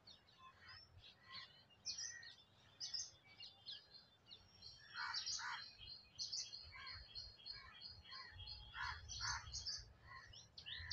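Faint chirping of small birds: many short, high chirps in quick succession, a little busier in the middle.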